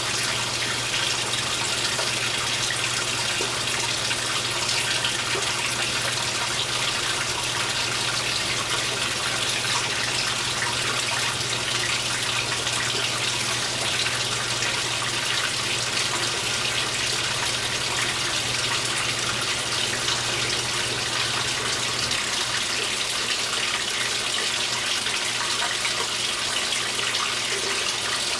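Water running steadily into the tub of a 2015 Speed Queen 8 Series top-load washing machine, with a low hum underneath that drops away near the end.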